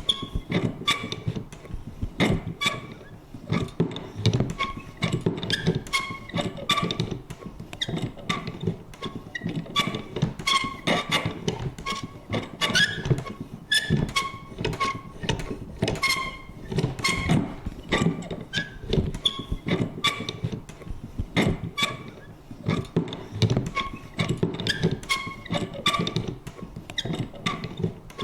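Vintage paper punch worked over and over: irregular sharp clicks and thunks, about two to four a second, mixed with short squeaky creaks.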